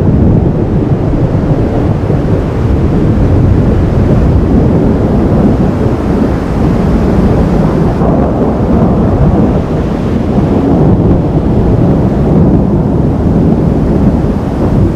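Thunderstorm: a loud, steady low rumble of thunder mixed with wind buffeting the microphone, with no distinct claps.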